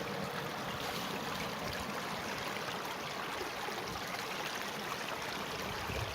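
Stream water flowing steadily, an even rushing wash with no breaks.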